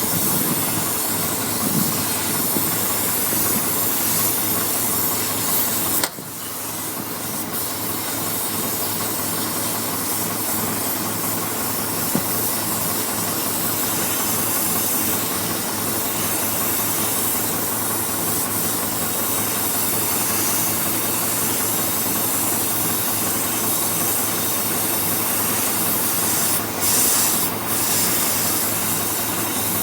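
Oxy-acetylene torch flame hissing steadily while cutting through steel, dipping briefly about six seconds in.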